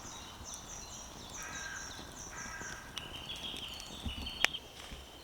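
Woodland birdsong: runs of quick, repeated high chirps with other birds calling lower, and one sharp click about four and a half seconds in.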